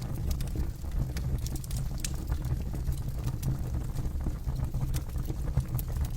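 Campfire burning with a steady low rumble and frequent sharp crackles and pops of burning wood.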